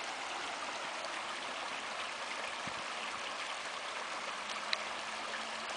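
Creek water running and splashing over rocks, a steady rushing.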